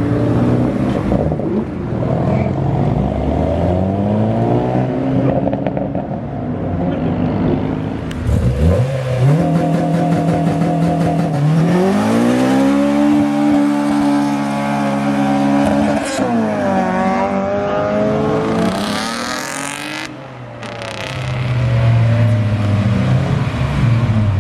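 Cars pulling away one after another, their engines revving up and dropping back as they accelerate and shift gears. A brief high rushing sound comes about three-quarters of the way through.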